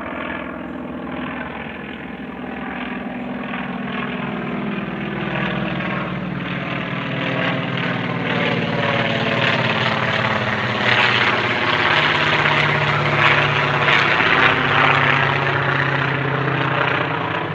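Big airplane passing low overhead: its engine drone swells to a peak about two-thirds of the way through, and its pitch slides slowly downward as it goes by.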